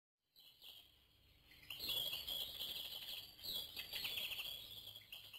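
Birds chirping and trilling in rapid high calls, a woodland ambience. It comes in faintly and grows louder about two seconds in.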